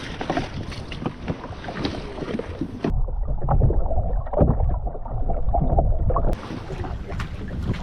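Water slapping and lapping against a drifting jet ski's hull, with small splashes and clicks, and wind buffeting the microphone. For about three seconds in the middle the sound turns muffled and deeper.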